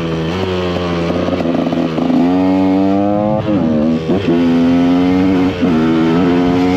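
A KTM EXC 125's two-stroke single-cylinder engine under way on the throttle. Its pitch climbs for a couple of seconds, drops sharply about three and a half seconds in, then holds high with two brief dips.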